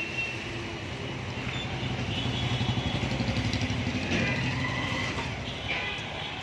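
Mahindra four-cylinder diesel engine of a 30 kVA generator set running, with a fast low pulsing that swells louder in the middle and eases off toward the end, and faint higher whines on top.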